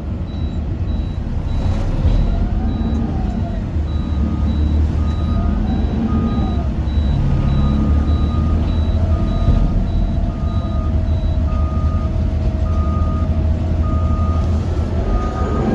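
Heavy truck engine running under the beeping of reversing alarms. Two alarms sound at different pitches: a high one that stops about three-quarters of the way through, and a lower one that starts about a quarter of the way in and keeps going.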